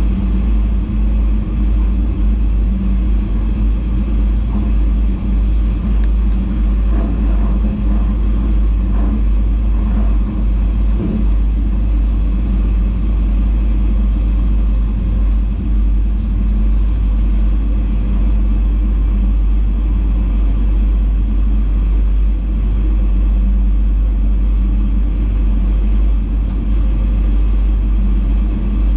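Steady running rumble of a VIRM double-deck electric intercity train heard from its driver's cab at speed on open track, with a low steady hum under it.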